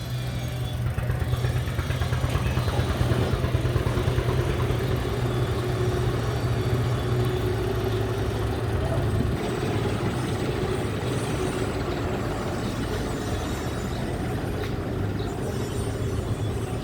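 Kubota tractor's diesel engine running steadily with a low, even hum.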